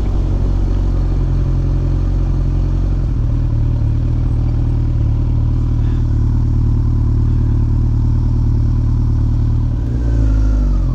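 2013 Kawasaki Ninja ZX14R's inline-four engine running steadily while riding, heard over the helmet or bike-mounted microphone. About ten seconds in the engine note falls as the revs drop.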